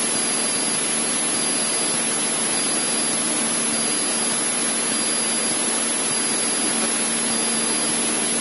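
Steady in-flight cockpit noise of a Cessna 152: its four-cylinder Lycoming engine and propeller droning at constant power under an even rush of airflow hiss.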